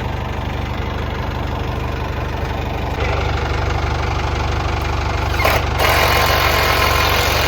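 Engine running steadily with a low rumble, growing louder about three seconds in. Near the end a louder hissing noise joins it, as if the engine is put under more load.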